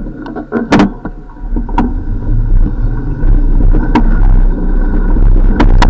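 Road and wind noise from a bicycle ride: a low rumble that grows louder after about two seconds, with several sharp clicks and rattles.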